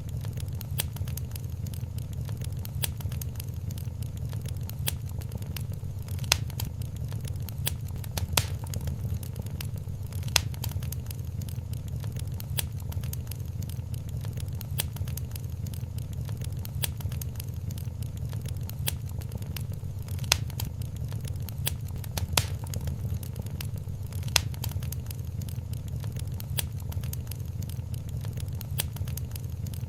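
Wood fire crackling in a fireplace: many small crackles with a handful of louder pops over a steady low rumble.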